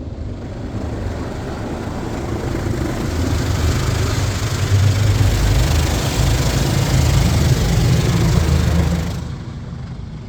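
High-pressure rinse spray from a Mark VII Aqua Jet GTO-300 touch-free car wash hitting the car, heard from inside the cabin, over a low rumble. The spray builds over the first few seconds, stays loud, and cuts off suddenly about nine seconds in.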